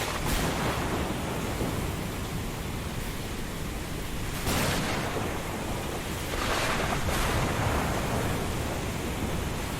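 Thunderstorm ambience: a steady hiss of rain and wind, with thunder cracks and rumbles at the very start, about four and a half seconds in, and again at about six and a half to seven seconds.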